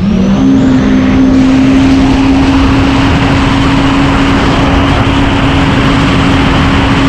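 Supercharged engine of a 2019 Yamaha FX SVHO jet ski running hard, its pitch climbing briefly at first and then holding steady at high revs, over a loud rushing hiss.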